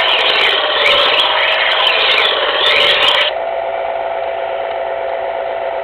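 Smith electric knife sharpener running with a steady hum while a knife blade is drawn back and forth against its spinning sharpening stone, a loud rasping grind. About three seconds in the blade comes out and the grinding stops suddenly, leaving only the sharpener's motor hum.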